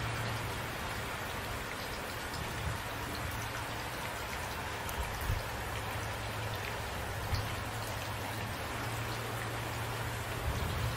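Steady rain falling, with a few brief louder drop impacts standing out now and then.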